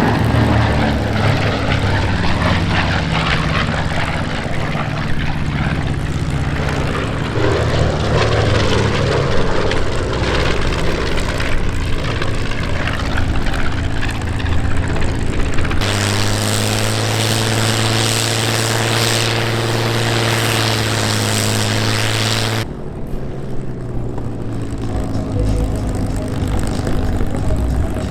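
Twin radial engines of a B-25 Mitchell bomber droning loudly on a low pass, a steady propeller-aircraft rumble. The sound changes abruptly about 16 s in to a smoother, evenly pitched drone, and again about 23 s in.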